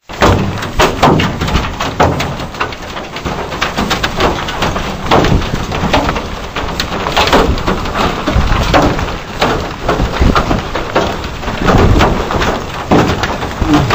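Rain falling with wind gusting on the microphone: a dense hiss broken by frequent sharp taps and a low rumble.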